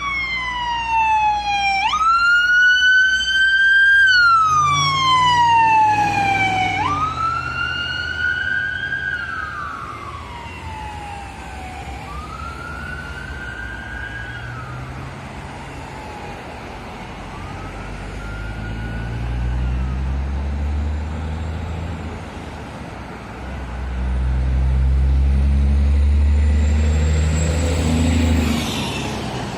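Electronic siren of a responding fire-rescue vehicle sounding a repeating cycle: each sweep jumps up quickly, then falls over about two seconds. It fades away over the first fifteen seconds or so. Then a deep vehicle engine rumble builds, loudest near the end.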